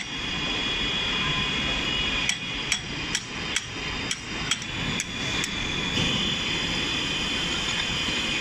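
Hammer striking metal, about eight sharp blows roughly half a second apart, over a steady machine whine and hum.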